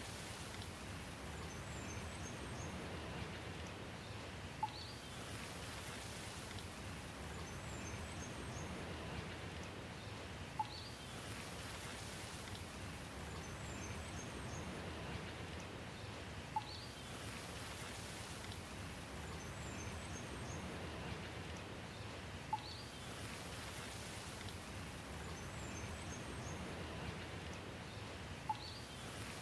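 Steady rain with faint high bird chirps and a short sharp tick that come back about every six seconds, the same pattern repeating as a short loop.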